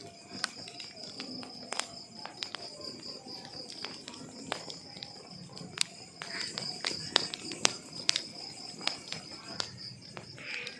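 Burning wood logs crackling, with irregular sharp pops that come thicker in the second half over a low rustle. A steady high-pitched trill runs underneath.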